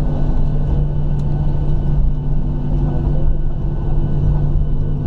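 Cabin noise of a Boeing 737-700 taxiing after landing: a steady rumble with a constant low hum from its CFM56 engines at idle.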